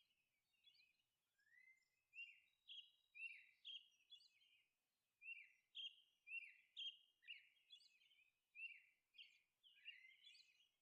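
Faint birdsong: many short, high chirps repeated in quick succession.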